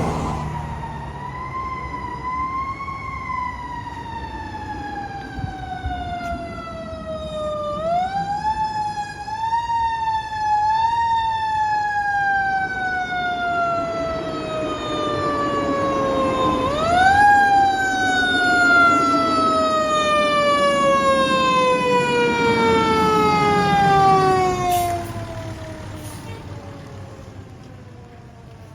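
Fire truck siren winding down: a single wailing tone that falls slowly in pitch, is pushed back up twice, about 8 and 17 seconds in, then sinks and fades away near the end. A heavy truck engine rumbles underneath, loudest while the last wind-down begins.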